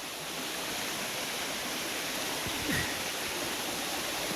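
Steady rush of water from a jungle waterfall running at low flow, with one soft thump about two-thirds of the way through.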